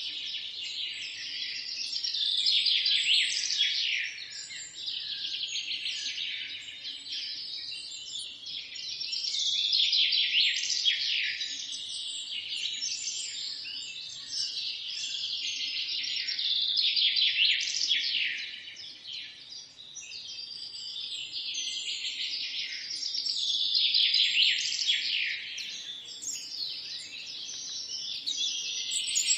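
A chorus of songbirds chirping and trilling, many calls overlapping, swelling louder and fading back every few seconds.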